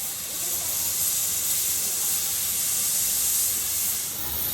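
A steady, loud high-pitched hiss that eases off near the end, like air or gas rushing out.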